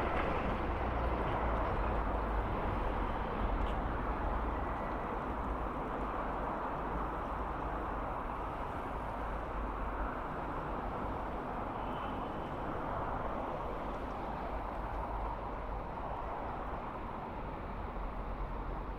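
Steady low rumble and noise of passing vehicles, slowly fading, with no distinct beats or horns.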